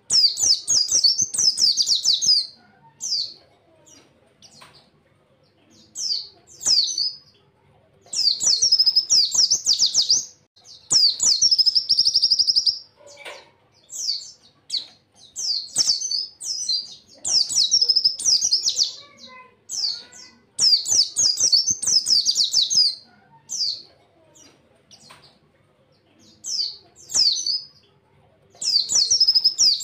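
A pleci (white-eye, Zosterops) singing its fast 'tembakan' song: rapid bursts of high twittering notes, each a second or two long, repeated with short pauses between.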